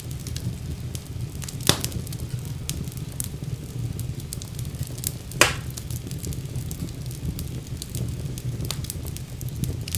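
Wood fire burning in a fireplace: a steady low rumble of flames with frequent small crackles and two loud pops, one about two seconds in and a louder one just past halfway.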